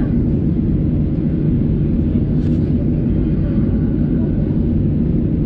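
Steady cabin noise of a Boeing 737-800, its CFM56-7B engines running at low taxi power, heard inside the cabin with a low, even rumble.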